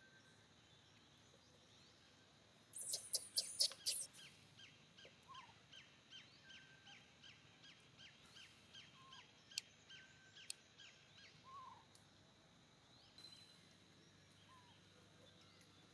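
Faint bird calls: a regular series of short, high, falling chirps, about two to three a second, lasting some seven seconds. They start with a burst of sharp clicks about three seconds in.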